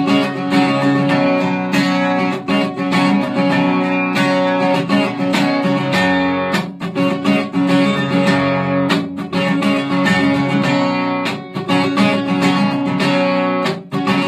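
Guitar strummed in a steady rhythm of chords, the instrumental opening of a song before the vocal comes in.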